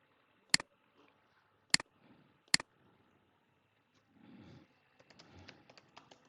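Computer mouse clicking, three sharp single clicks about a second apart. Softer rustling with faint light taps follows from about four seconds in.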